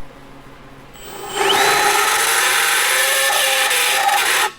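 Hand-held electric drill spinning up with a rising whine, then grinding into an aluminium mount plate for about three seconds with a bit he takes for a countersink; really loud. It stops abruptly near the end.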